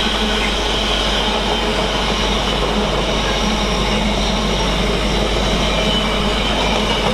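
Freightliner freight train passing: a steady, loud run of wagon wheels on the rails.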